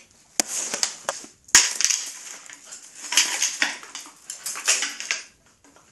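An umbrella crinkling, rustling and snapping in bursts as a dog tugs at it and tears it, with sharp clicks from its frame, the loudest about a second and a half in.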